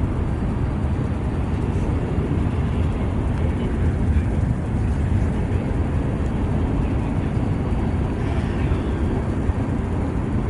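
Freight train passing, a steady low rumble.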